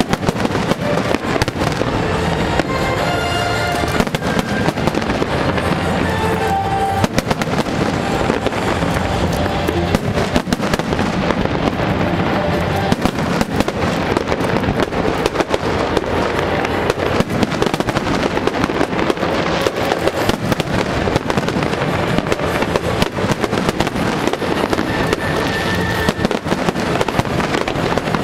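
Aerial fireworks going off in a dense, unbroken barrage of bangs and crackling, with music playing underneath.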